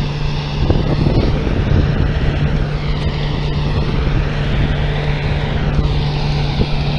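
DON-1500 combine harvester running steadily while harvesting sunflower: the engine and threshing machinery give a continuous loud drone with a low hum.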